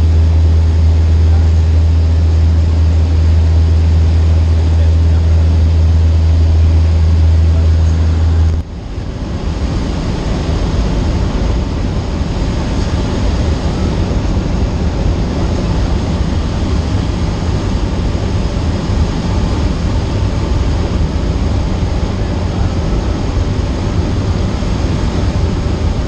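Cessna 152's four-cylinder piston engine and propeller droning steadily, heard inside the cabin. About nine seconds in the sound changes abruptly from a strong low hum to a rougher, noisier drone.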